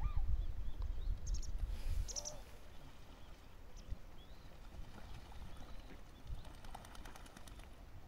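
Outdoor ambience with a few short, high bird chirps about one and two seconds in, over a low rumble that fades after about two seconds. Fainter calls and ticks follow.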